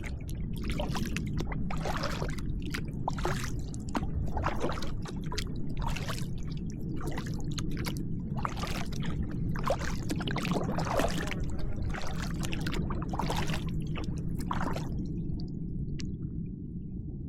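Kayak paddle strokes dipping and splashing in the water at a steady rhythm, over a steady low rumble. The strokes stop about fifteen seconds in.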